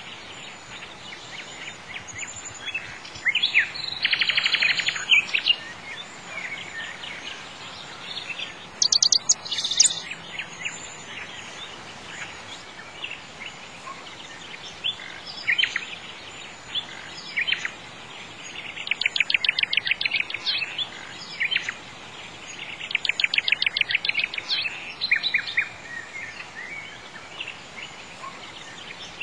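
Birds chirping and singing, with bursts of fast trills several times, over a steady background hiss.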